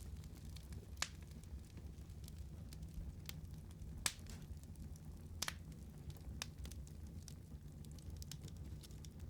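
Wood fire burning in a fireplace: a steady low rumble of flames with scattered sharp crackles and pops, the loudest about a second in, about four seconds in and midway.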